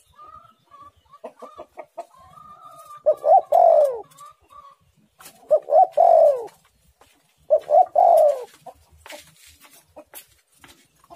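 Spotted dove (tekukur) cooing: three loud phrases about two seconds apart, each a quick pair of notes that slide down in pitch, after a few seconds of faint soft warbling notes. A few sharp clicks follow near the end.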